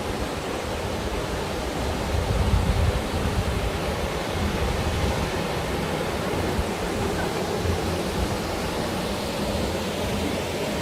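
Mountain valley stream swollen after the monsoon rains, rushing steadily with a constant hiss of fast water, a little louder for a moment about two seconds in.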